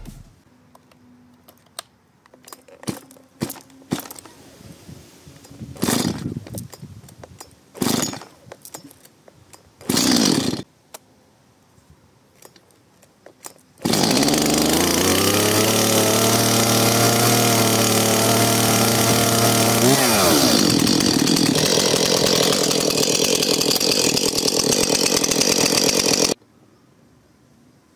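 Gasoline chainsaw being pull-started: several short tugs on the starter cord, then the engine catches about halfway through and runs steadily. Its note shifts a few seconds later, and the sound stops abruptly near the end.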